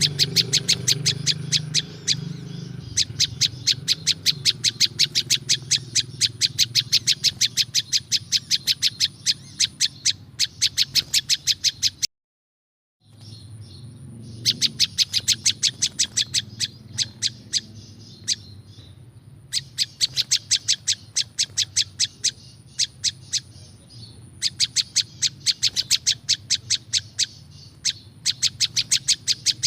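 A prinjak lumut songbird singing a long, fast, rhythmic string of sharp high notes, about four a second, in runs with short breaks. A steady low hum sits underneath. The sound cuts out completely for about a second near the middle, then the song resumes.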